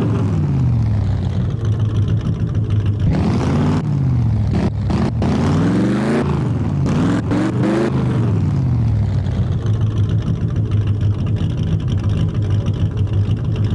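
Motor vehicle engine idling, revved several times in quick succession about three to eight seconds in, its pitch rising and falling with each rev, then settling back to a steady idle.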